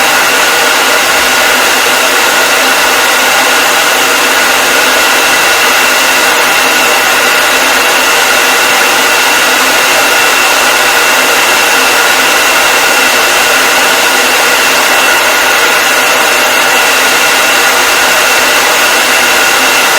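Hair dryer running continuously at a steady speed: an even airy rush with a constant motor whine, no change in pitch or level.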